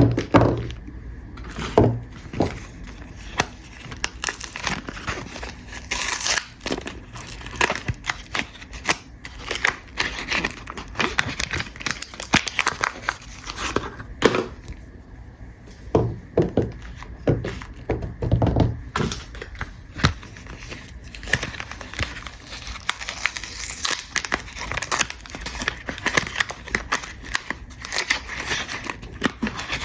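Soap bar wrappers being crinkled and torn open by hand: dense, irregular crackling and rustling with short rips, and a few soft knocks.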